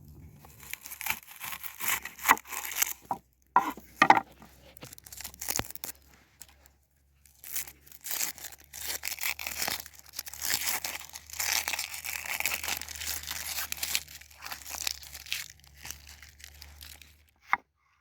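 Crinkling, tearing rustles during food preparation, coming in irregular bursts with a short pause partway through. A few sharp knocks come around the fourth second, and one sharp click near the end.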